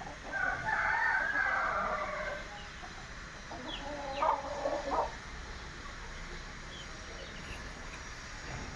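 A desi rooster crows once, a long call lasting about two seconds, then chickens cluck with a few short calls around the middle.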